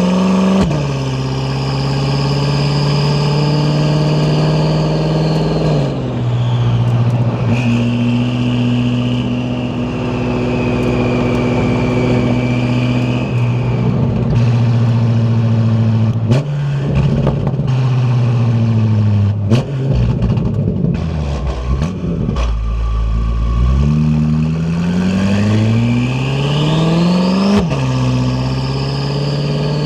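BMW F10 M5 Competition's twin-turbo V8 running through an Akrapovič exhaust under way. The engine note climbs and then drops sharply with about four upshifts. A high turbo whistle rises with the revs and falls away after each shift.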